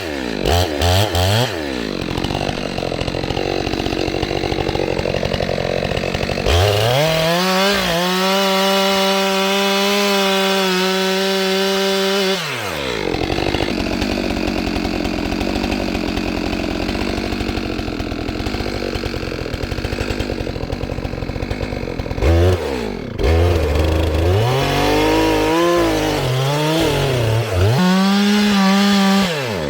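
Two-stroke chainsaw blipping its throttle, revving up and holding at full speed, then running lower and rougher under load as it cuts into a large tree trunk. Near the end it is revved up and down several times and held high again.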